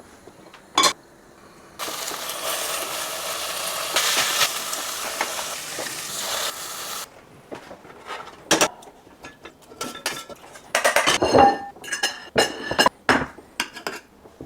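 Kitchen cooking sounds. A steady hiss of food cooking in a pan runs for about five seconds, then utensils clink and clatter against pots and dishes.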